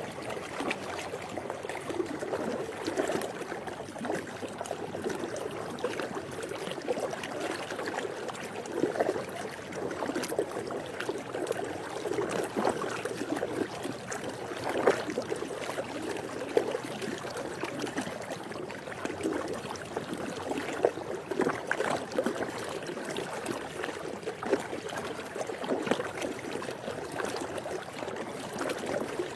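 Swimming-pool water lapping and sloshing continuously, with small irregular splashes.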